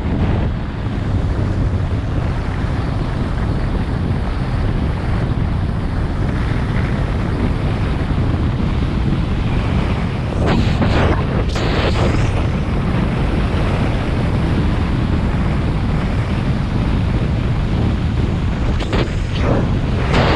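Wind buffeting the microphone of a camera on a moving mountain bike: a loud, steady rush, with brief louder bursts about halfway through and again near the end.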